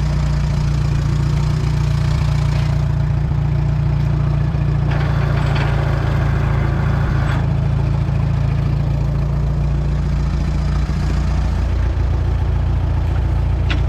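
Allis-Chalmers WD tractor's four-cylinder engine running steadily at idle. Extra noise rises over it for about two seconds in the middle, and the engine note shifts slightly near the end.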